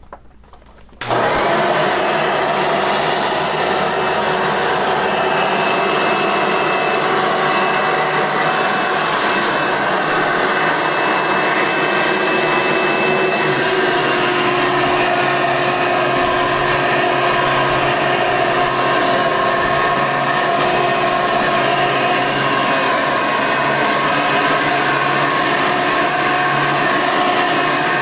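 Upright vacuum cleaner switched on about a second in, its motor running steadily at full speed with a high whine.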